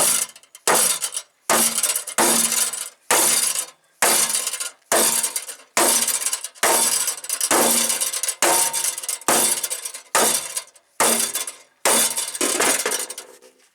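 Sledgehammer striking a stainless steel truck fender over and over, about one heavy blow every second, each with a short bright metallic ring, bending a sharp crease back out of the stiff metal.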